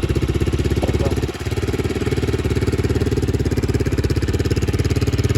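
Vento Rocketman 250R motorcycle engine idling steadily with a rapid, even pulse, dipping briefly about a second and a half in.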